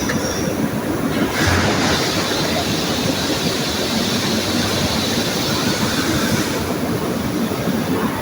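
Aluminium melting furnace running: a steady, loud low rumble, with a high hiss that comes in about a second in and stops near seven seconds.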